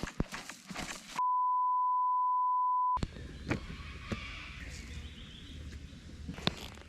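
A steady, pure high beep, a single tone edited into the sound track, lasting about two seconds with all other sound cut out under it. Faint background noise and a few scattered clicks before and after it.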